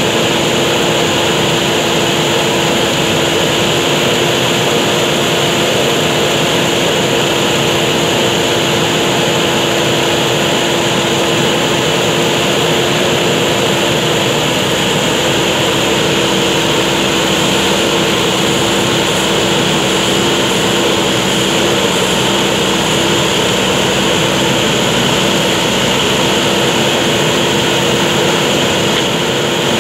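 Diesel engine of a JCB backhoe loader running steadily under load while digging.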